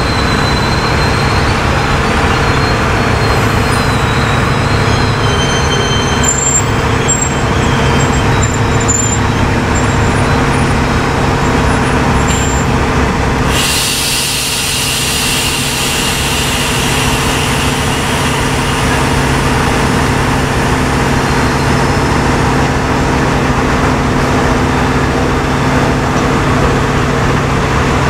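Chepe passenger train under way: the diesel locomotive's engine drones steadily under the running noise of the cars on the rails. About halfway through, a steady high hiss sets in suddenly and carries on.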